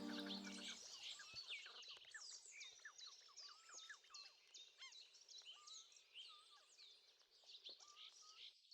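Many small birds chirping and twittering together in a fast, busy chorus, fading slowly. The last sustained notes of soft music die away in the first second.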